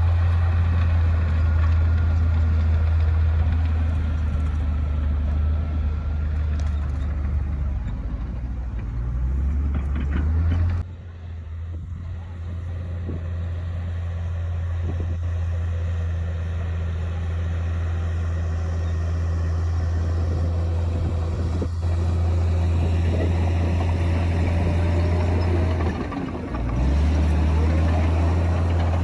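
Komatsu D58P bulldozer's diesel engine running with a steady low drone. The drone drops away suddenly about eleven seconds in and builds back up, then dips briefly again near the end.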